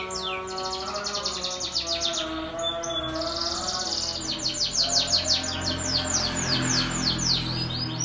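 Domestic canary singing in long fast trills of rapidly repeated downward-sweeping notes, with a continuous rolling trill about three seconds in. Sustained lower musical tones run beneath the song.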